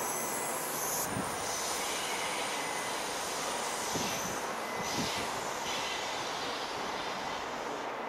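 Class 170 Turbostar diesel multiple unit running slowly round a curve over pointwork, with a steady rumble and a few knocks as its wheels cross the rail joints.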